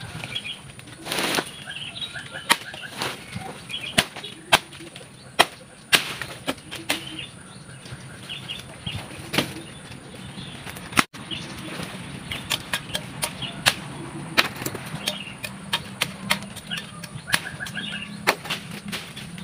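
Irregular sharp snaps and cracks of broken branches and twigs being cleared from a storm-broken pepper-vine support stake, with leaves rustling. Birds chirp faintly in the background.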